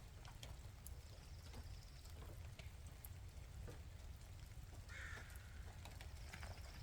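A crow cawing once, about five seconds in, over scattered light drips of rain and a low steady rumble.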